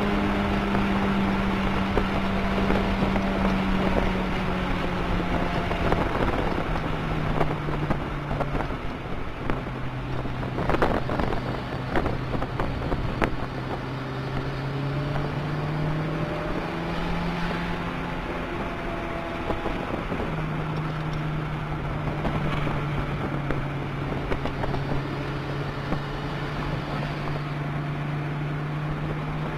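Toyota MR2 Turbo's turbocharged four-cylinder engine at speed on track, heard from inside the cabin. The engine note drops twice as the car slows for corners, rises briefly, then holds steady revs. Wind and road noise run underneath, with a few sharp knocks near the middle.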